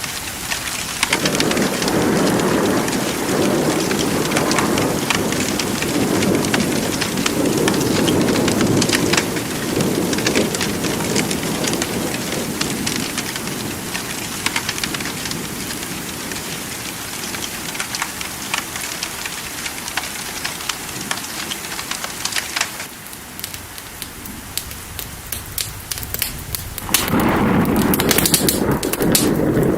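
Steady rain with many sharp crackles, under rolling thunder that rumbles from about a second in, dies away over the next ten seconds or so, and rolls in again near the end.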